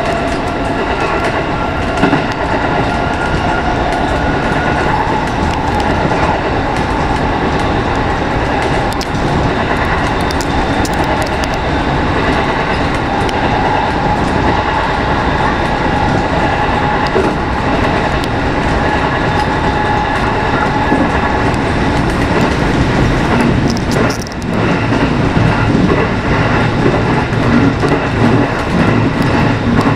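A JR West 207 series electric commuter train running along the line, heard from the front of the train: a steady rumble of wheels on rail with scattered clacks over rail joints.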